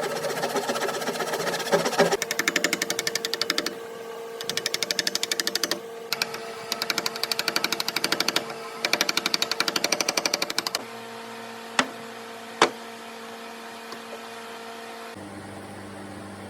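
Power tool running in four separate bursts of a second or two each, with a fast, even pulsing. Two sharp knocks follow, about a second apart.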